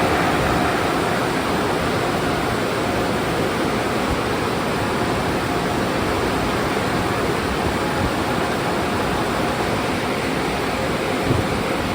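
Car wash water jets spraying, a steady loud rushing hiss.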